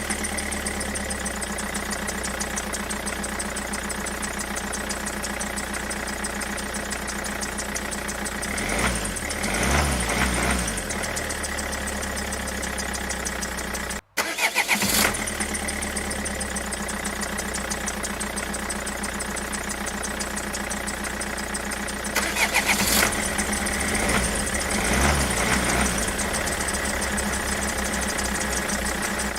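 Recorded tractor engine sound, idling steadily with louder bursts about nine seconds in and again about twenty-three seconds in. It cuts out for an instant about fourteen seconds in and starts over, so it is a repeating loop rather than a live engine.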